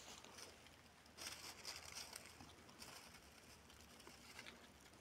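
Near silence: faint crackling and rustling, a little louder about a second in.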